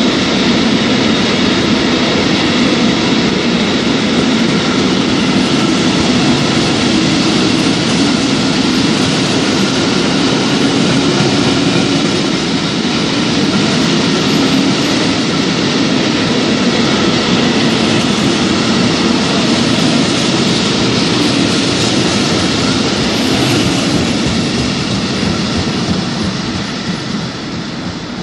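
Freight train of flat wagons rolling past at speed: a steady loud rumble and rattle of steel wheels on the rails, fading over the last couple of seconds as the end of the train moves away.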